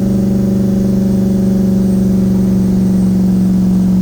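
Nissan VK56 twin-turbo V8 in a 300ZX running at a steady cruise, a constant engine drone with no change in revs.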